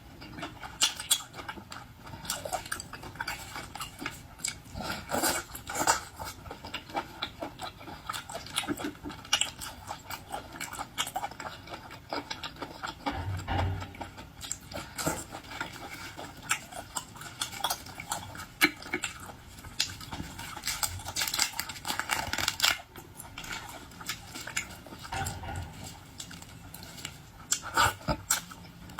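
Close-miked eating of boiled shell-on seafood: many sharp clicks and crackles of shells being handled and bitten, with chewing and occasional clinks of cutlery or dishes.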